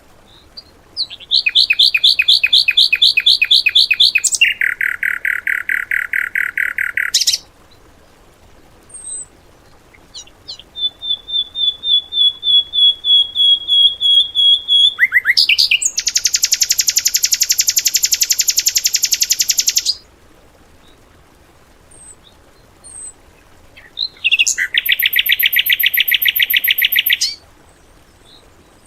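Songbird song made of rapid machine-gun trills, the 'tembakan' style used as training material for cage birds. It comes in bursts of three to four seconds, each a fast run of repeated notes, some high and some lower, with short pauses and a few single chirps between.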